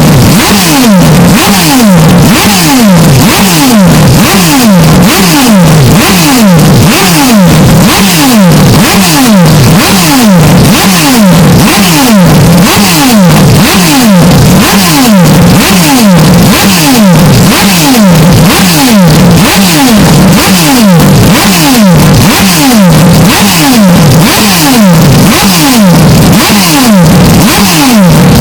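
Extremely loud, clipped, engine-like sound made of falling-pitch sweeps that repeat evenly, about two or three a second, over a harsh hiss, with no break. The even repetition points to a looped, deliberately distorted 'earrape' edit rather than a single real flyby.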